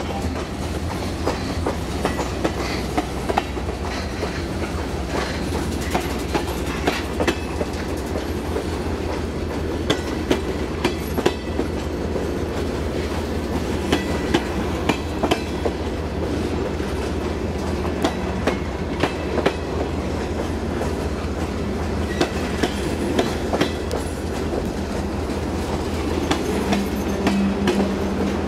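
Freight train of railroad tank cars rolling past, steel wheels clicking irregularly over the rail joints over a steady low rumble. A steady low tone joins in near the end.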